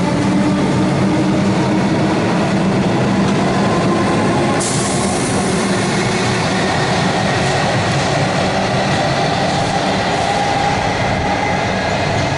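Electric suburban metro train running at an underground station platform: a steady loud rumble of wheels and traction equipment, with a sudden burst of hiss about four and a half seconds in.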